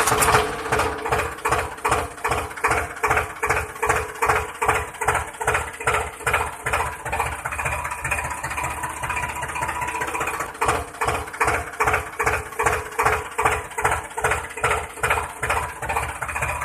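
A DIY mini tractor's small motor running steadily, with an even knocking pulse about three times a second.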